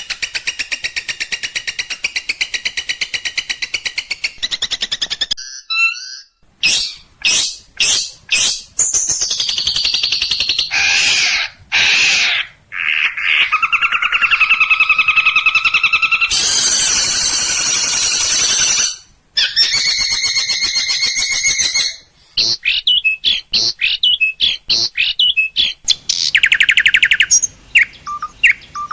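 Long-tailed shrike (cendet) singing a varied, loud song full of mimicked phrases. It opens with a fast trill of repeated notes, then gives sharp separate notes, long harsh buzzy passages and whistled phrases, with rapid trills again near the end.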